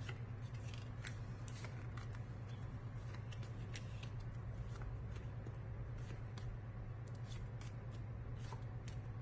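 A steady low electrical hum with scattered faint, irregular clicks and rustles, like small objects or cards being handled.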